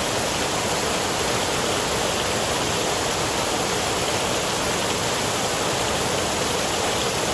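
Steady rain noise from a thunderstorm ambience track: an even, unbroken hiss with no thunder claps.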